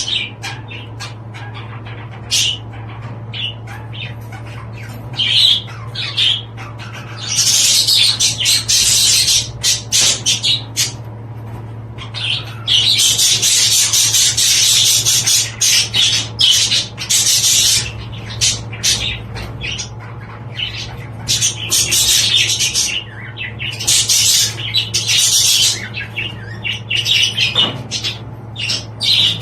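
Budgerigars chattering and warbling, in long dense stretches broken by short pauses, over a steady low hum.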